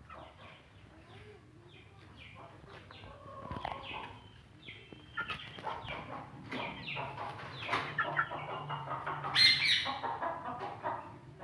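Hens clucking and calling in many short notes, growing busier and louder from about four seconds in, with a loud flurry about nine seconds in.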